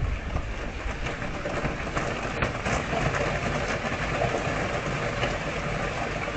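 Steady rain falling on gravel, plants and a birdbath, a dense even hiss of many small drop taps.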